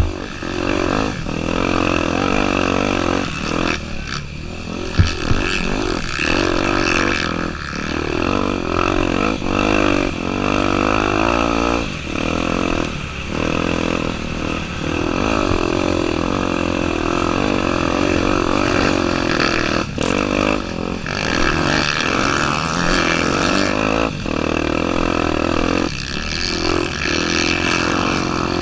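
Honda Tornado 250 single-cylinder four-stroke engine running hard off-road, its note rising and falling with short dips every second or two. There is a low thump about five seconds in.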